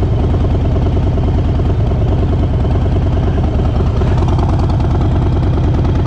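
Harley-Davidson Sport Glide V-twin engine running steadily with an even, pulsing exhaust beat, heard close on the motorcycle.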